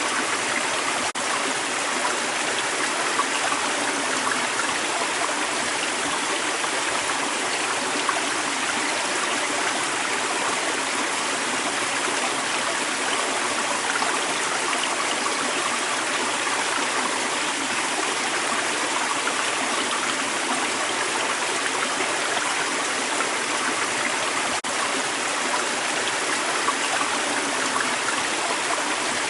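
Creek water running steadily over rocks, a dense, even rushing and bubbling. It is briefly broken twice, about a second in and near the end, by a momentary dip, likely an edit.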